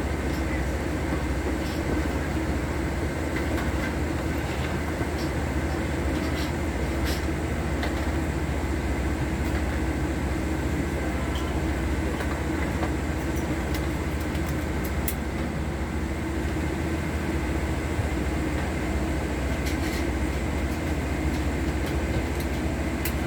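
Steady cabin noise inside a Boeing 787 airliner: a constant low rumble with a rush of air over it, and a few faint clicks.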